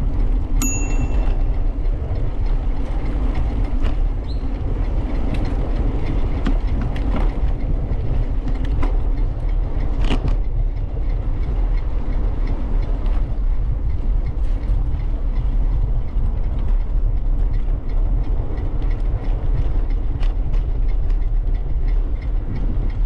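Ride noise from a bicycle rolling along a trail: a steady low rumble of wind and rolling on the microphone, with frequent small rattles and clicks.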